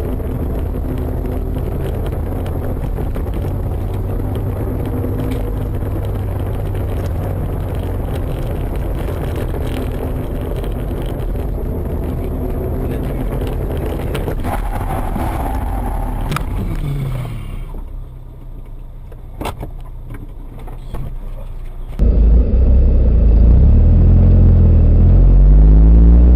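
Car engine and road noise, changing abruptly about 17 and 22 seconds in. The last stretch is much louder, with a deep rumble and the engine pitch rising and falling.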